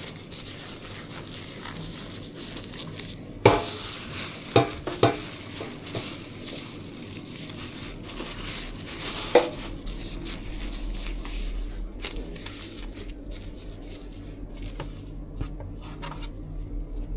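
Food-preparation noise: steady scraping and stirring, with a few sharp clatters of utensils and containers about three and a half, five and nine seconds in.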